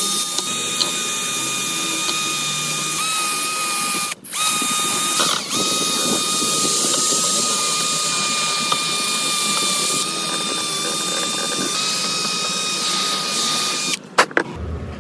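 A high-speed electric power tool running with a steady high whine over a loud hiss. It cuts out for a moment about four seconds in, then runs on and stops shortly before the end, followed by a couple of sharp clicks.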